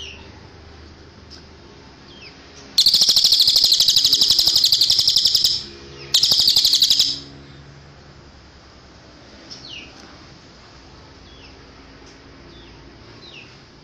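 Cililin singing: short high falling whistle notes, broken up by two loud, rapid buzzing trills a few seconds in, the first about three seconds long and the second about one second.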